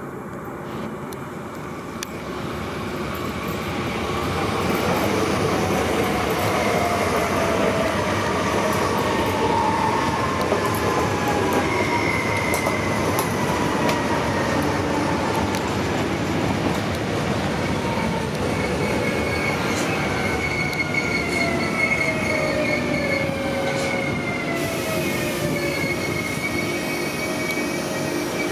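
Rodalies electric commuter train running in round a curve and slowing into the station, growing louder over the first few seconds. Its wheels squeal in high whistles on the curved track, and a whine slides down in pitch as it brakes.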